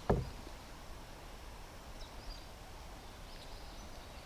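Quiet riverside ambience: a short low thump at the start, then a faint steady hiss with a few faint high bird chirps about two seconds in.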